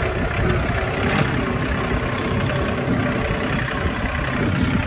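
John Deere tractor's diesel engine running steadily as the tractor is driven.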